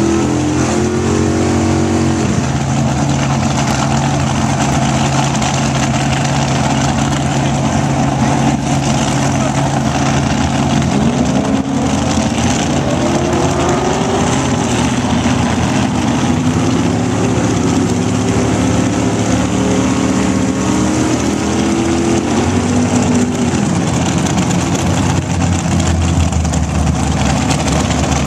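Drag racing car engine idling loudly. Its revs rise and fall several times through the middle.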